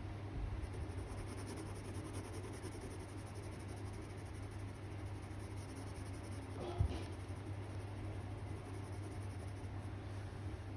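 Drawing strokes scratching on paper over a steady low hum, with one short knock about seven seconds in.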